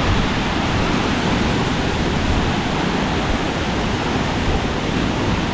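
Mok Fa Waterfall heard up close: a loud, steady rush of falling water, heavy in the low end.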